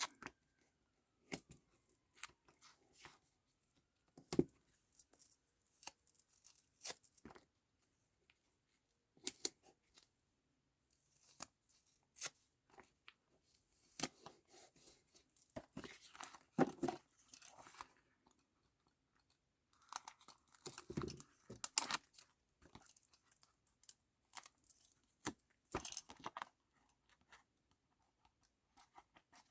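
Double-sided tape being peeled from its backing paper while card and paper are handled and pressed down: short intermittent tearing and crinkling sounds with light taps, in several small clusters.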